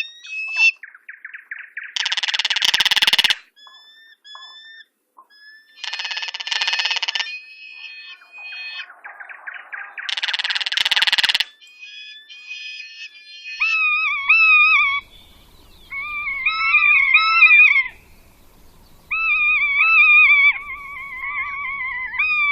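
Birds calling: three harsh, buzzy bursts with thin whistled notes between them, then, from about halfway, a run of repeated warbling phrases.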